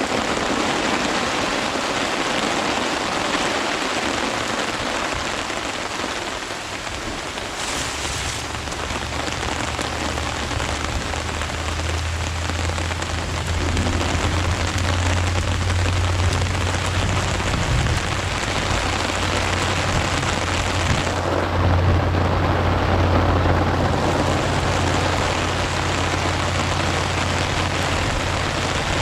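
Steady heavy rain falling, with a low, continuous rumble joining about eight seconds in and lasting to the end.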